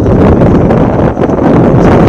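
Wind buffeting the microphone: a loud, steady rumbling noise, with a brief dip about a second in.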